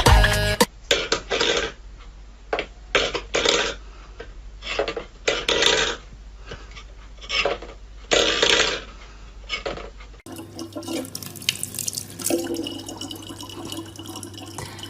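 Water splashing in irregular short bursts, then, after a cut, water running steadily from a tap.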